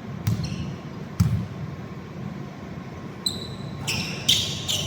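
A basketball bouncing on a hardwood court, with two hard thuds in the first second or so, then several short, high-pitched sneaker squeaks near the end.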